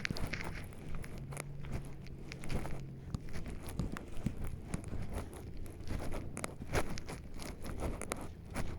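Footsteps crunching on a forest trail, an uneven run of crackles and snaps underfoot.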